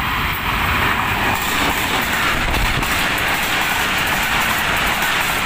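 A diesel-hauled express passenger train passes close at speed, first the locomotive and then its coaches. It is a loud, steady rush with the wheels clacking over the rails, growing a little louder about half a second in.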